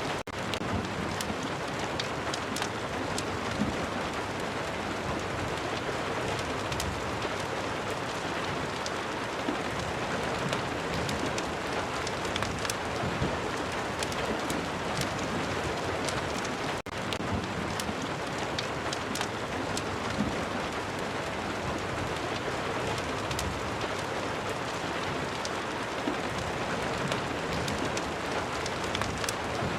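Steady rain with scattered sharp crackles from a fireplace fire mixed in. The sound cuts out for an instant about 17 seconds in.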